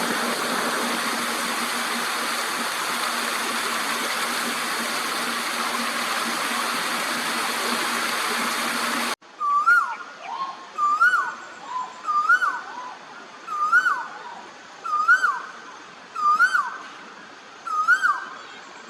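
A steady rushing noise with a low hum. About nine seconds in it cuts off suddenly, and a bird takes over, calling again and again: a short whistled note that rises and then drops, about once every second and a half.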